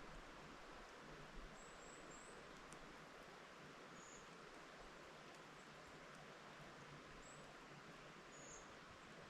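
Faint, steady rustle of wind through forest trees, with several brief high chirps scattered through it.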